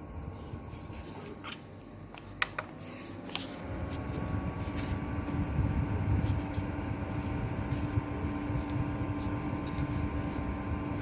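Small portable evaporative air cooler fan switched on: a few clicks, then about three and a half seconds in its motor spins up with a rising tone and settles into a steady hum.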